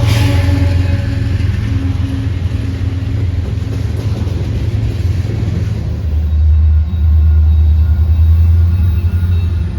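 Train rumbling past, a steady low rumble; a few steady tones fade out in the first two seconds. About six seconds in the rumble turns louder and deeper.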